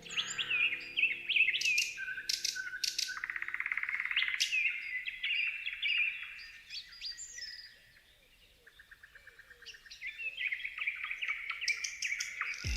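Several birds chirping and calling together: short rising and falling chirps, with a rapid buzzy trill about three to four seconds in. The calls thin out around eight seconds in, then pick up again near the end.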